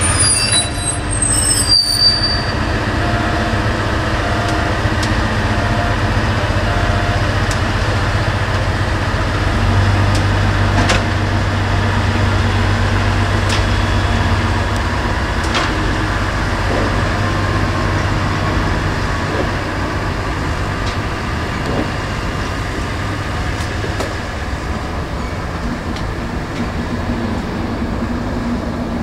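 EF65 electric locomotive being shunted slowly along depot tracks: a steady low rumble of the moving train with a few sharp clicks.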